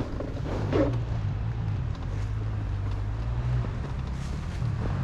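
Dirt bike engine running at low revs, its pitch shifting a little as the throttle changes.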